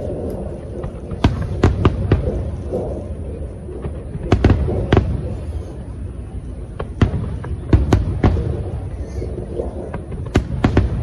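Aerial fireworks going off: a dozen or so sharp bangs at irregular intervals over a continuous low rumble of bursts.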